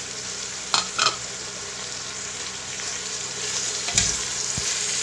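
Chicken, onions and freshly added chopped tomatoes sizzling in hot oil in an aluminium pressure cooker, stirred with a slotted metal spoon. Two short clicks come about a second in, and a knock near the end.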